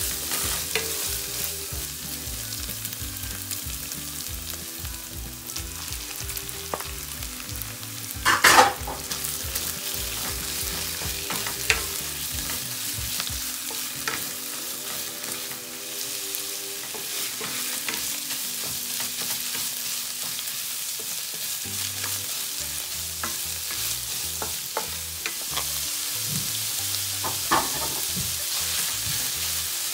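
Diced onion, celery and shrimp sizzling in oil in a nonstick frying pan, stirred and scraped with a wooden spatula. There is a loud burst about eight seconds in and a few sharper knocks of the spatula later.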